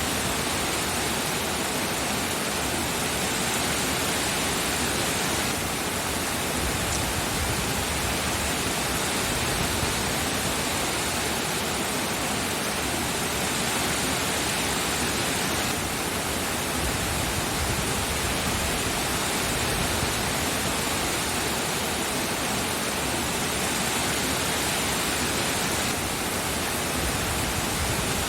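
Steady, even rain with no distinct drops or other events.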